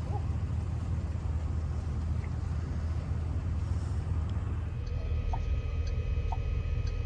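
Wind buffeting the microphone outdoors, a steady low rumble. About five seconds in it gives way to a quieter steady electrical hum with a few short faint blips.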